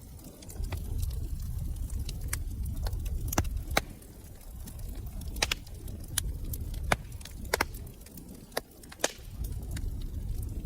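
Wood fire crackling in a fireplace: sharp pops and snaps at irregular moments over a low steady rumble of the burning flames.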